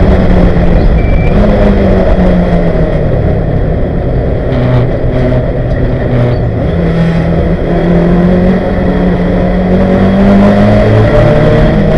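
1971 Ford Capri 2.0-litre race car's engine, heard from inside the cabin. It runs hard at high speed, its pitch falls as the car slows hard from about 100 mph, then climbs again as the car accelerates away.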